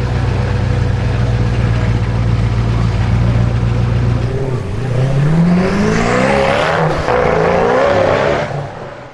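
Koenigsegg Agera R's twin-turbo V8 idling steadily, then pulling away about four and a half seconds in, its note rising as it accelerates off. The sound fades out near the end.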